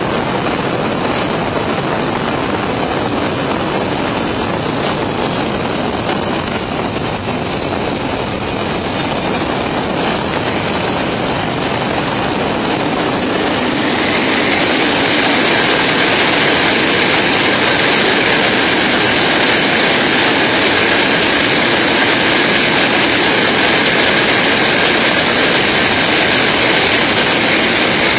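Airliner noise picked up by a camera in the landing gear: steady rushing airflow and jet engine noise. About halfway through it grows louder and hissier, then holds steady.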